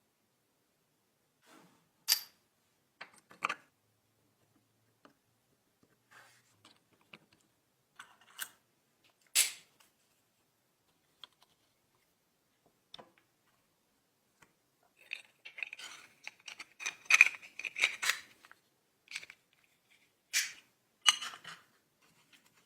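Scattered sharp clicks, taps and short scrapes of small hard parts being handled, with a busier run of scraping and clicking about two-thirds of the way through.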